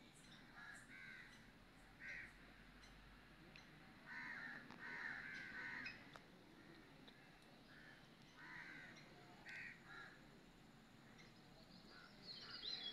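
Faint bird calls: short pitched calls coming singly or in pairs every second or two, with a quicker run of several about four to six seconds in.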